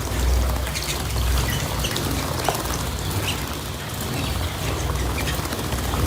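Small cage birds chirping in short scattered calls over a steady pattering of water, as from birds splashing in a bath.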